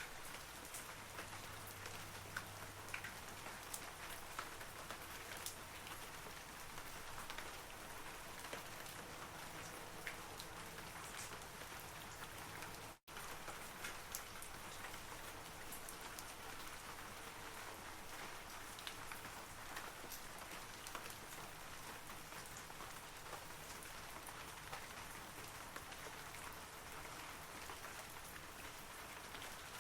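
Steady rain falling on forest trees, an even hiss dotted with the ticks of single drops. It cuts out for an instant about 13 seconds in.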